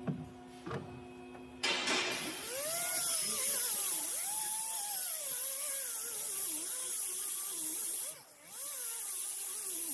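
Power tool running over a strong high hiss, its whine wandering up and down in pitch, starting about two seconds in and dipping briefly just past eight seconds, after a few short clicks.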